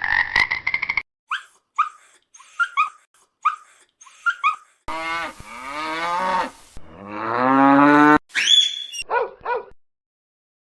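Cow mooing: two long, drawn-out moos in the middle, the second growing louder and the loudest sound here. Before them comes a run of about eight short, quick calls from another animal, and a few short calls follow the moos.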